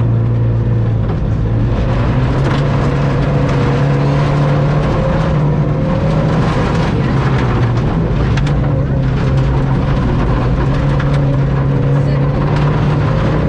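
Ford Fiesta ST rally car's engine pulling hard at speed, heard from inside the cabin, its pitch shifting only a little, with scattered sharp knocks and clatters from the car over it.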